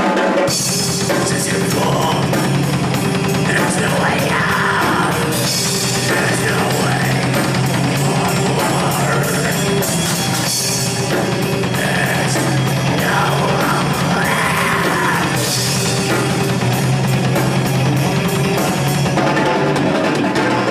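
Rock band playing live: loud, heavy music with a drum kit, bright cymbal crashes every few seconds, in a rough-sounding live recording.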